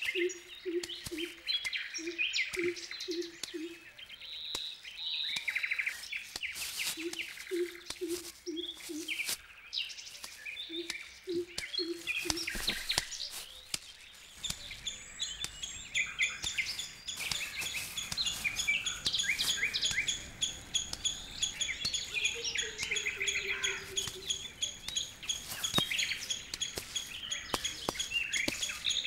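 Several wild birds calling: a low hooting note repeated in runs of three or four through the first half, over high chirps and trills that go on throughout.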